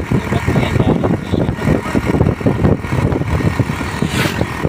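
A motor vehicle's engine running with steady, rattling rumble, heard from on board while driving along.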